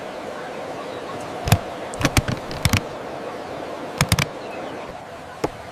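A run of sharp, short knocks: one, then a quick cluster of three or four, then a fast triple, then one more near the end, over a faint steady background hum.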